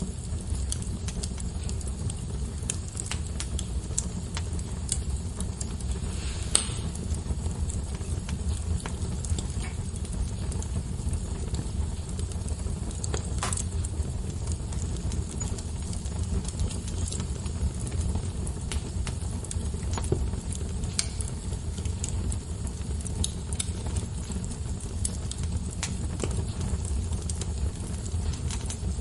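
Wood fire crackling: scattered sharp pops and ticks over a steady low rumble of the flames, with a few louder pops.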